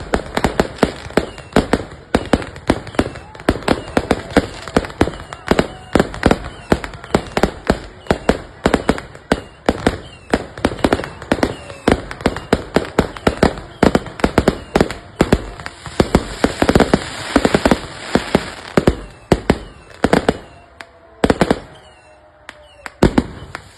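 Fireworks going off in rapid succession, several sharp bangs a second, with a thick flurry of crackling about two-thirds of the way through. The bangs thin out to a few scattered ones near the end.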